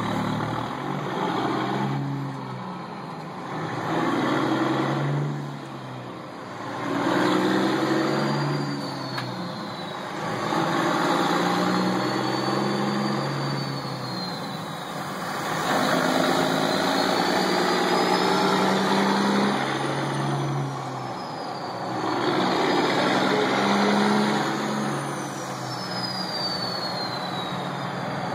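Semi truck's diesel engine swelling and easing several times, with a high turbo whistle that rises and falls with each swell.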